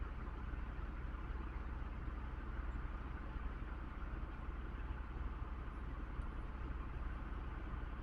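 Steady low drone with a hiss, unchanging throughout, with no distinct knocks or voices.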